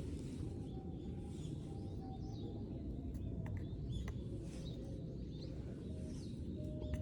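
Wild birds chirping with short, scattered calls over a steady low outdoor rumble, with a few faint held pure notes and occasional sharp clicks.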